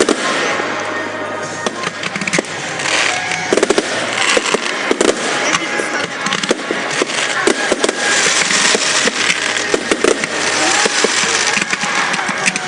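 Fireworks display: a dense run of sharp cracks and bangs over continuous crackling and hissing.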